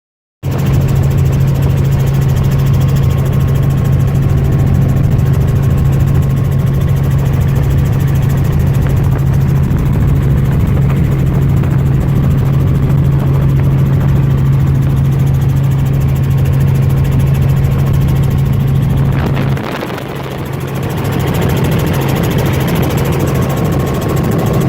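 Helicopter engine and rotor heard from inside the cabin: a loud, steady low drone. About 20 seconds in the low drone drops out and the sound eases briefly before building back up.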